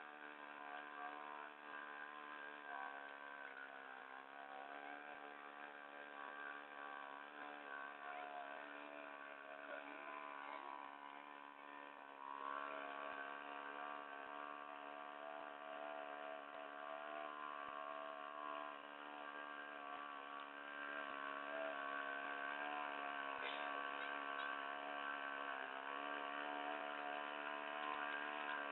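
Small engine of a propeller-driven boat running steadily, a faint even drone whose pitch wavers slightly. It gets a little louder about twelve seconds in and again later on.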